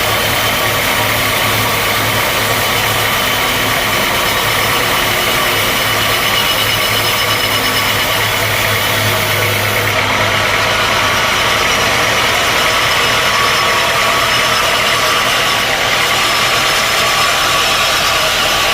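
Sawmill machinery running steadily, an engine-like drone with a constant whine. The low hum drops away and the sound shifts slightly about halfway through.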